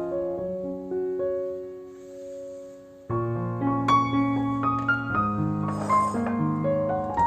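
Soft background piano music: a few held notes that thin out, then a fuller run of chords from about three seconds in, with a brief hiss about six seconds in.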